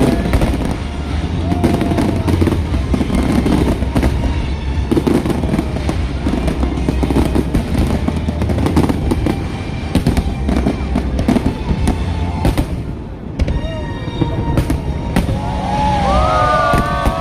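Fireworks going off in a dense, continuous barrage of booms and crackles, with music playing underneath.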